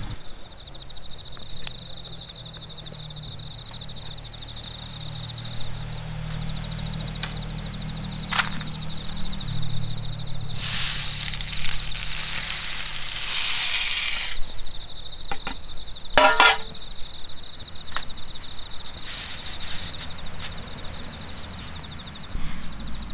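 Sharp scattered pops and crackles from the campfire coffee roasting, with a few seconds of rustling hiss near the middle, over an insect trilling steadily in a high pulsing tone.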